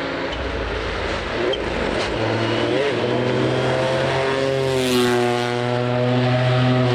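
Rally car engine approaching on a stage, growing steadily louder at fairly even revs, with a brief rise and fall in pitch about five seconds in.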